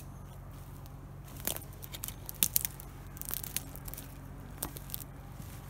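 Footsteps crunching over dry forest floor litter, with twigs and pine debris crackling and snapping at irregular intervals; a few sharper snaps stand out around the middle.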